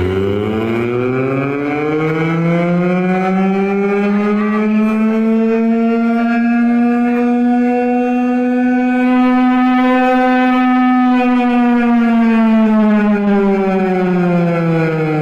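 A siren-like sweep played through a large sound system: one long tone that rises in pitch over the first few seconds, holds steady, then falls near the end.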